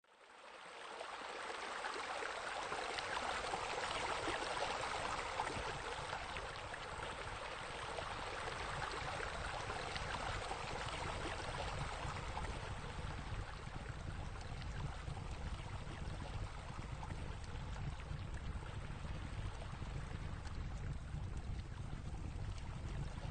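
Steady rushing and splashing of flowing water, like a pool fountain or waterfall, fading in over the first second or two and then holding even.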